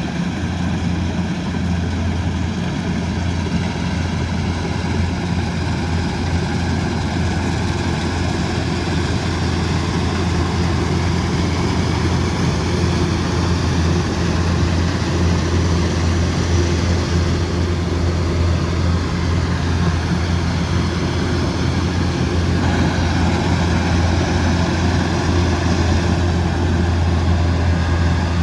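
Kubota DC108X combine harvester running steadily: a deep, even diesel engine drone with machinery noise over it, growing slightly louder about halfway through.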